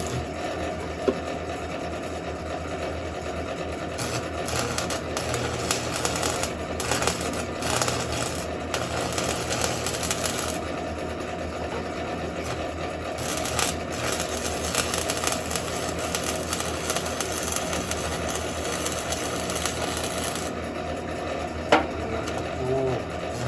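Stick (arc) welding: the electrode arc crackles and sizzles steadily, with one sharp click near the end. The rod was giving trouble, its flux coating breaking off.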